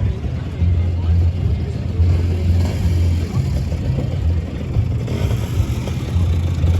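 Lambretta scooters' two-stroke engines running and revving as they pull away, the engine note rising and falling every second or so.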